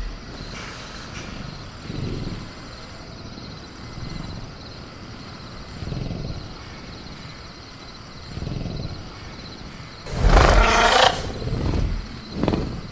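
Sound-designed velociraptor growling about ten seconds in, with a shorter growl near the end, over soft low swells that come every two seconds or so. A steady chirr of crickets runs underneath.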